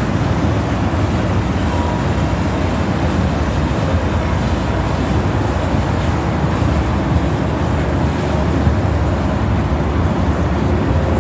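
Steady low rumble of boat engines on the water, mixed with wind buffeting the microphone.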